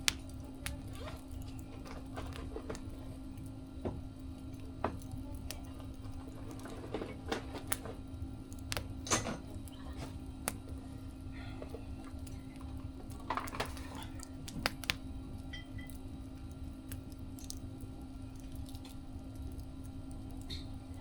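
Wood fire crackling, with irregular sharp pops and snaps, some in quick clusters, over a steady low hum.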